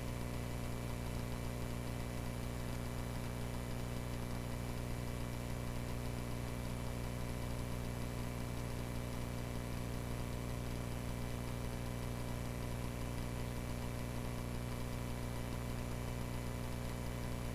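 Light aircraft's piston engine running steadily at a constant speed, heard as an even low hum under the radio.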